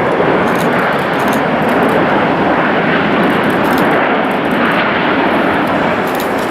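Jet airliner engines heard as a loud, steady rushing noise.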